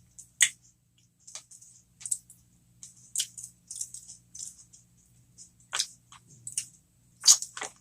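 Close-miked eating sounds: scattered sharp crunches and wet mouth clicks from chewing breadcrumb-topped cheeseburger jalapeno poppers, with the loudest crunches about half a second in and near the end.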